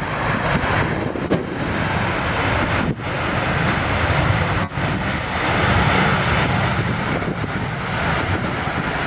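Jet airliner's engines, a loud steady rush of noise as the plane comes in to land.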